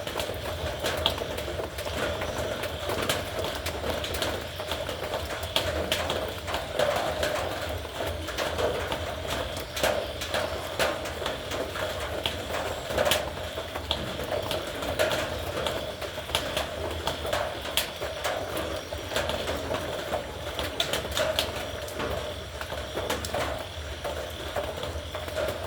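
Heavy rain on a metal roof: a dense, irregular patter of drops striking the sheet metal, with no let-up.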